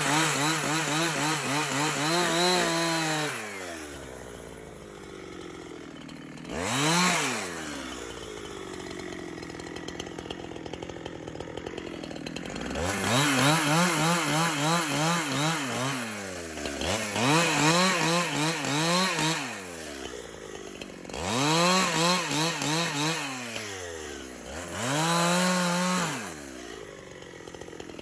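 Chainsaw cutting wood in several bursts: the engine revs up, its pitch wavering under the load of the cut, then falls back to a low idle between cuts. One of the bursts is a short rev.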